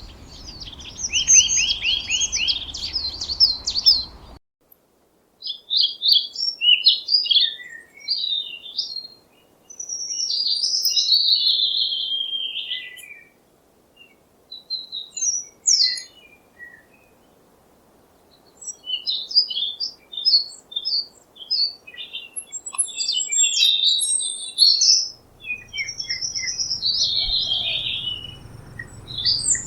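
Songbirds chirping and warbling in many short, varied phrases. A rapid repeated trill over a low background noise cuts off about four seconds in; a low background rumble comes back near the end.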